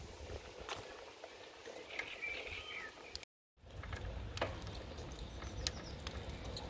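Small birds chirping in short calls over a steady low rumble of outdoor air. The sound drops out for a moment about three seconds in.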